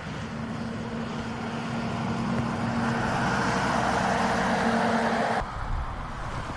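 A road vehicle passing, its noise with a steady engine hum growing louder, then cut off abruptly about five seconds in, leaving quieter outdoor background noise.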